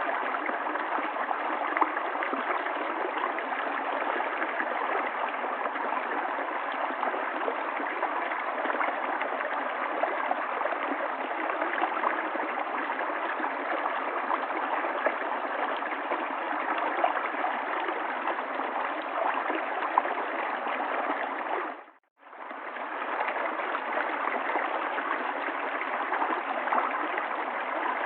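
River water flowing steadily, a continuous babbling rush with many small splashes. About three quarters of the way through it fades out to silence for a moment and fades straight back in.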